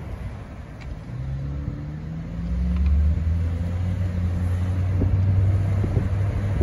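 Car engine pulling away and accelerating: a low hum comes in about a second in, rising slightly in pitch, and grows much louder about two and a half seconds in, then holds steady.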